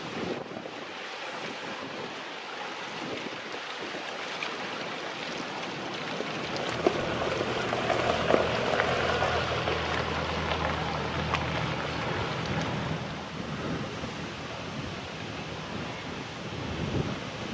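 Wind buffeting the microphone over lapping river water. In the middle a boat's engine hum swells up and fades away again as it passes.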